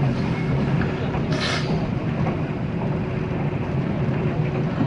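Running noise of a 485-series electric train heard from inside a passenger car: a steady low rumble from the wheels and running gear, with a brief hiss about a second and a half in.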